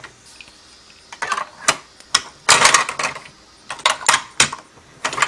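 Hard plastic clicking and clattering in several short bursts, densest near the middle: small plastic toy vehicles being set into a plastic toy lookout tower.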